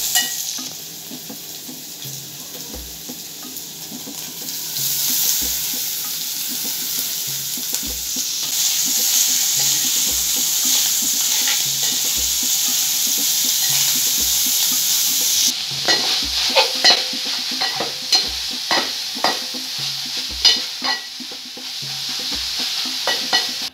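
Minced beef with green peppers and onions sizzling as it fries in a metal pot, stirred with a metal spoon. The sizzle grows louder about five seconds in and eases about two-thirds of the way through, after which the spoon scrapes and clinks against the pot many times.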